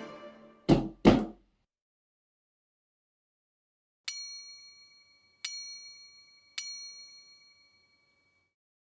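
Background music ends on two short low hits. A few seconds later come three separate bell-like dings, a bit over a second apart, each ringing out and slowly fading.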